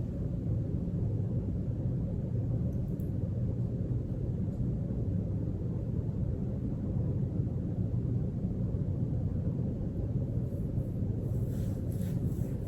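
Steady low rumble of background noise, with a few faint ticks near the end.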